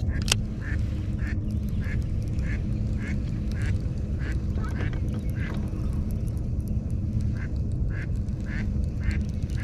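A bird calling in a rapid series of short, high chirps, about two to three a second, pausing briefly partway through, over a steady low rumble of wind and water. A single sharp click sounds just after the start.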